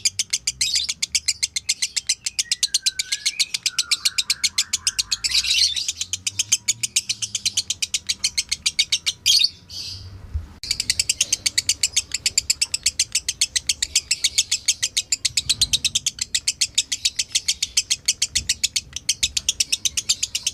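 Lovebird giving its long, rapid chattering song (ngekek): a fast, even string of high chirps, several a second, broken by a brief pause about halfway through.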